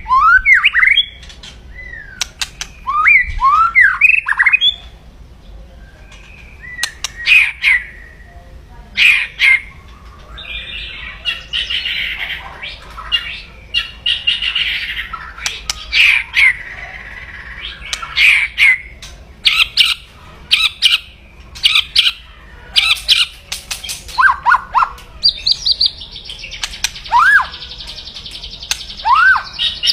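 White-rumped shama (murai batu) giving its aggressive 'kretekan' call: sharp crackling clicks mixed with short rising whistles and second-long harsh buzzy rattles. This is the loud, agitated calling of a fired-up male, the kind used to provoke rival birds.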